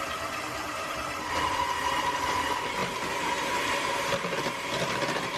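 Electric stand mixer running steadily, its beater creaming butter and sugar; a steady whine joins the motor noise about a second in.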